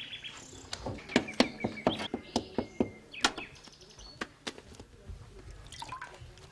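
Birds chirping, with a quick run of about ten sharp taps in the first half.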